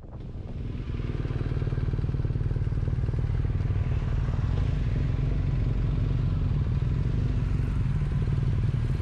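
Motorcycle engine running steadily, fading in over the first second and then holding an even pitch and level.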